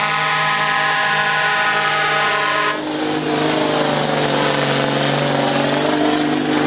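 Semi truck air horn sounding one long steady blast that cuts off about three seconds in, leaving the truck's diesel engine working hard under load as it pulls the weight sled. The engine's pitch dips and climbs back as the driver shifts through the gears.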